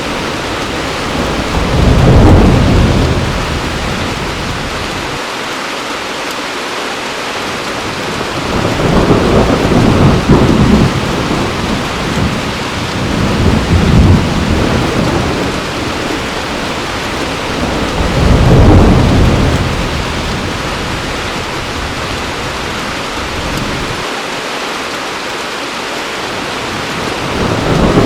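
Heavy rain falling steadily, with thunder rumbling several times, building and fading over a few seconds each.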